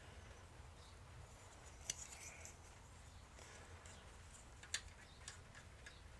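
Near silence with a few faint clicks of small plastic toy parts being handled, the sharpest about two seconds in and just before five seconds.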